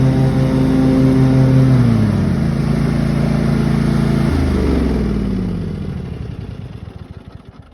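Cub Cadet mower's engine running steadily, then throttled down in two drops of pitch and dying away as it winds down.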